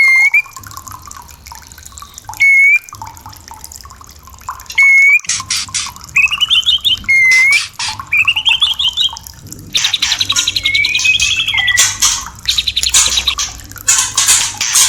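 White-rumped shama (murai batu) calling: short clear whistled notes every couple of seconds, two quick rising trilled phrases in the middle, then a dense, rapid chattering song in the second half. Trickling water runs underneath.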